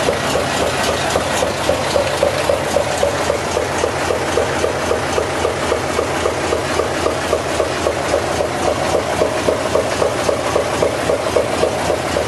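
Hino dump truck's diesel engine idling steadily, with a rapid, even pulse.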